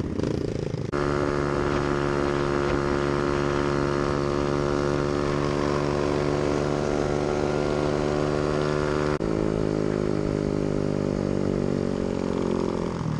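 Small 125cc motorcycle engine running at a steady cruising speed, with wind noise over the microphone. About nine seconds in the pitch steps down abruptly, then eases lower as the bike slows.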